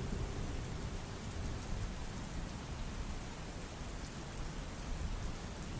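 Steady rainfall, an even hiss of rain with a low rumble underneath.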